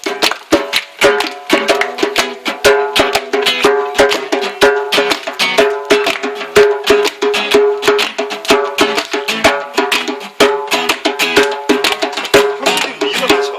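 Acoustic guitar and djembe playing a lively passage without singing: held guitar chords under quick, dense hand-drum strikes in a steady rhythm.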